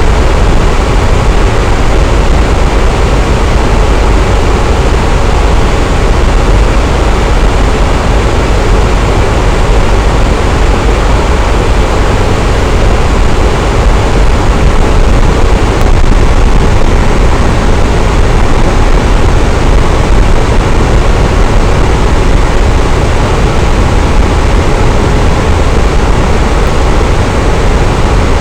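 Electric fan running steadily: an even, unbroken rushing of air with a deep low hum underneath.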